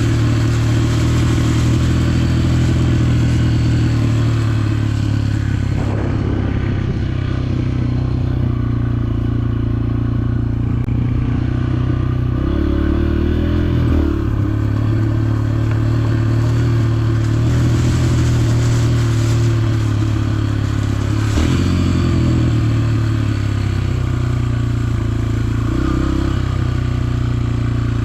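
Dirt bike engine running steadily under way, its note dipping and climbing briefly about halfway through and again about three quarters of the way in as the throttle changes.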